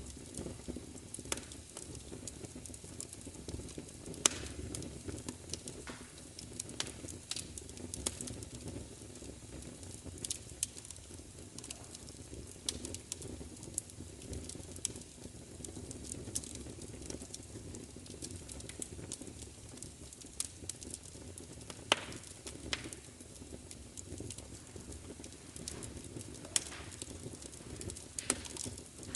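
Wood fire crackling, with irregular sharp pops and snaps over a steady low roar of the flames; the two loudest pops come about four seconds in and about twenty-two seconds in.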